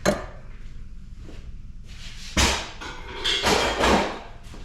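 Knocks and clanks of scrap metal being worked and handled: a sharp knock at the start, another about two and a half seconds in, then a longer clattering burst.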